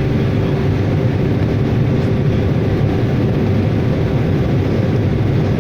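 Aircraft in flight: a loud, steady engine drone with no change in pitch or power.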